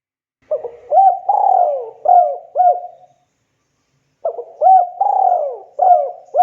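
Spotted dove cooing: two phrases, one starting about half a second in and the next about four seconds in. Each phrase is a short note, an upswept note, a longer drawn-out coo, then two short upswept coos.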